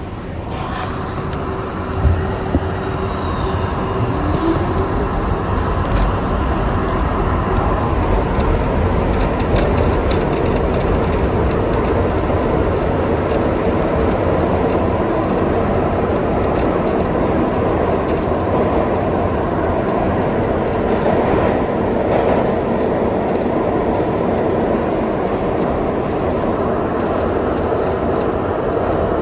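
Kawasaki R62 subway car running on the rails, heard aboard. The rumble of wheels and track grows louder over the first several seconds as the train picks up speed, then holds steady. A few clicks and a brief high wheel squeal come about two seconds in.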